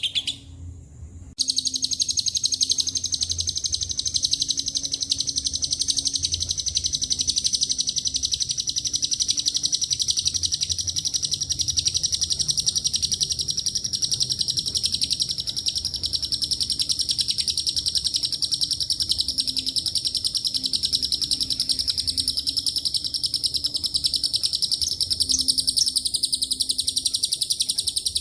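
Lovebird singing its long 'ngekek' song, a single unbroken, very rapid, high-pitched chattering trill. It starts about a second in after a brief break and goes on without pause for over twenty-five seconds.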